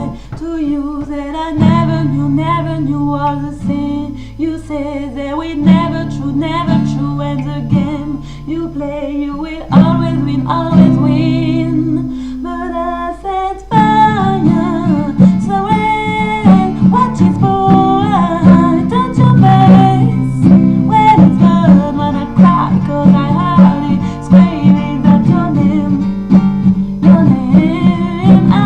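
A voice singing over acoustic guitar accompaniment. The music becomes fuller and louder about halfway through.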